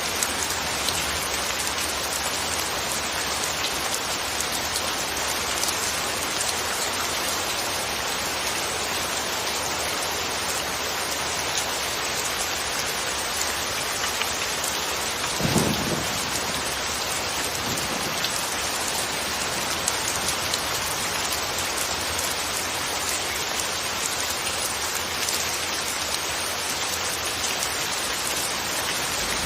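Steady rain falling, an even hiss with scattered drop patters. About halfway through comes a brief low rumble lasting about a second, with a fainter one a couple of seconds later.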